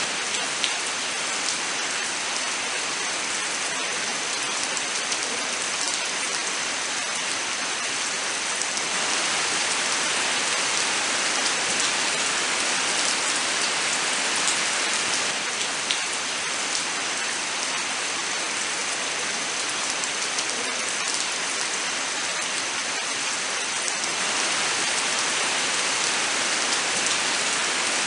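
Steady, even rainfall pattering on surfaces, with scattered individual drops ticking through it.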